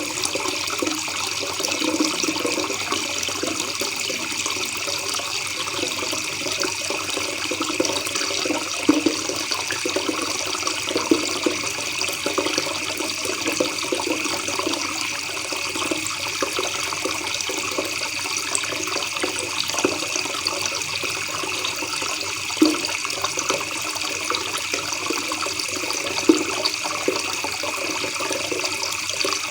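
River water babbling steadily, with a few brief louder gurgles here and there.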